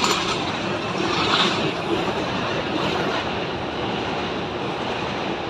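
Train running past with a steady rumble and rail noise.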